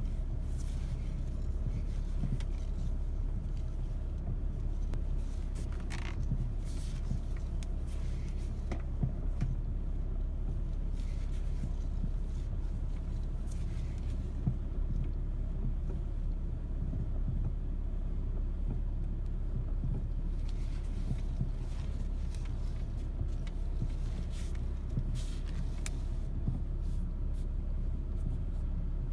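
BMW E61 525d straight-six diesel idling with a steady low rumble, while short sounds come and go at irregular intervals as the steering wheel is turned. These are the steering noise the owner is trying to trace.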